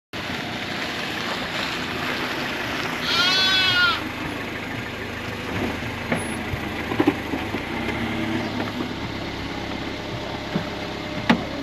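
Toyota car engine running steadily at idle, with one drawn-out animal bleat about three seconds in, the loudest sound, and a few light clicks later on.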